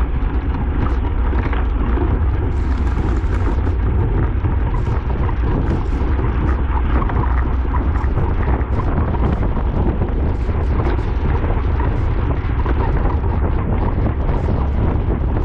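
Loud, steady wind buffeting on the microphone of a camera riding along in a bicycle race at speed, a constant low rumble with rushing noise over it.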